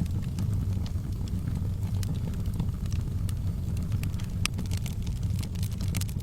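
Wood fire in a fireplace crackling: scattered sharp pops and snaps over a steady low rumble of the burning fire, with one louder pop about four and a half seconds in.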